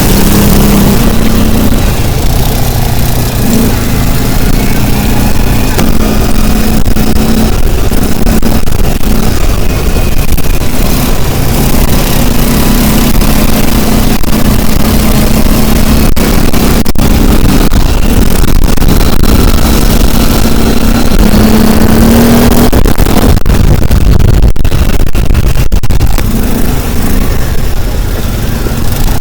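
Motor vehicle engine running steadily under way, its pitch rising and falling with the revs, over a dense rushing noise.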